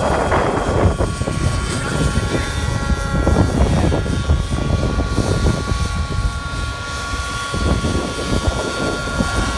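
Radio-controlled model aircraft flying, its motor giving a steady high whine that settles in about two seconds in, over the low rumble of strong wind buffeting the microphone.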